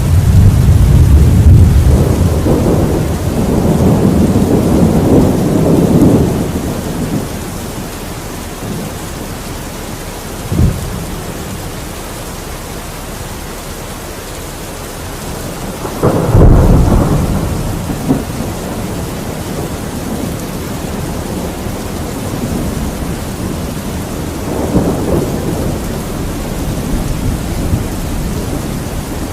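Thunderstorm with steady rain hissing throughout. A long rolling rumble of thunder fades over the first six seconds, a short crack comes about ten seconds in, a loud clap hits near sixteen seconds and rumbles on, and a softer roll follows around twenty-five seconds.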